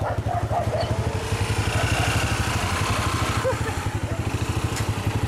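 A motorbike engine idling with a steady, rapid low throb. Faint voices are heard over it.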